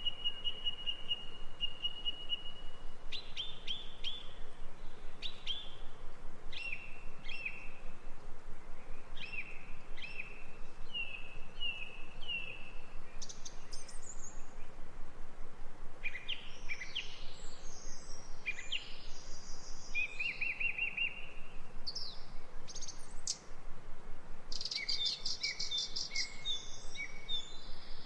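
Several songbirds singing and calling: high trills, quick chirps and short whistled phrases, over a steady background hiss.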